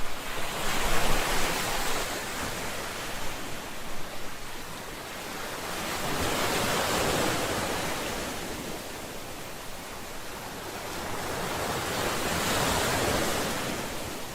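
Ocean waves breaking and washing on a shore, rising and falling in slow swells about every six seconds.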